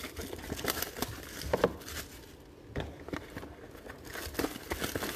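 Plastic wrapping on trading-card packaging crinkling and being torn, in irregular crackles and clicks as it is handled.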